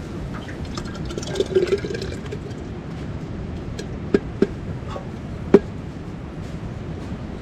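Liquid being poured or ladled briefly about a second in, then three sharp clinks with a short ring, the last the loudest, over a steady background hiss.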